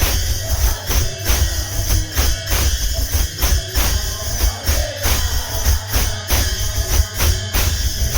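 Instrumental kirtan music from a kirtan group: drums and jingling percussion keep a steady, driving rhythm, with no singing.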